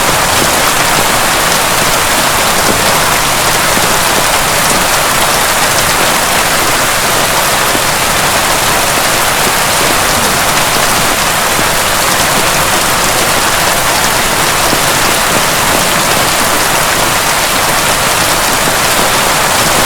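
Heavy rain pouring steadily: an even, unbroken hiss with no thunder.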